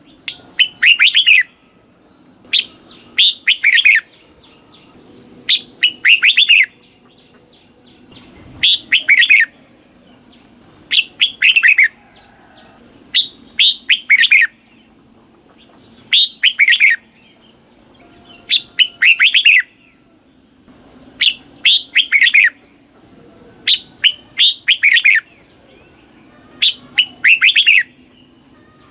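Red-whiskered bulbul singing: short, loud phrases of quick whistled notes, repeated about every two to three seconds.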